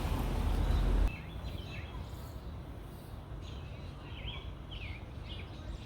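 Low wind rumble on the microphone for about a second, then outdoor ambience with scattered short, high bird chirps.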